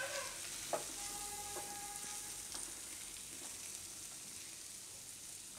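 Purple cabbage and corn kernels sizzling in hot oil in a non-stick wok, stirred with a silicone spatula, with a few short scrapes. The sizzle slowly fades.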